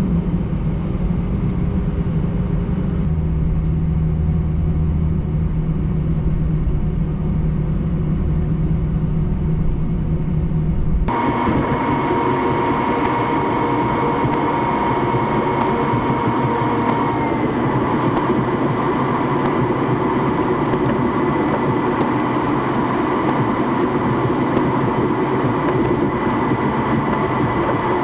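Airbus A320 cabin noise from the jet engines and airflow: a low rumble with a steady low hum at first, then, after a sudden change, a louder, brighter engine noise with two steady whining tones that dip slightly in pitch about 17 seconds in.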